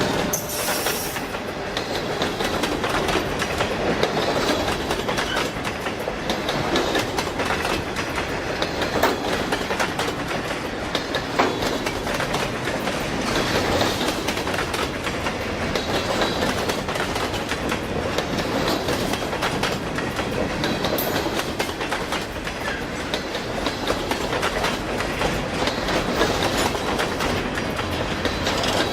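Freight train cars rolling past, a steady rumble with steel wheels clicking and clacking over the rail joints.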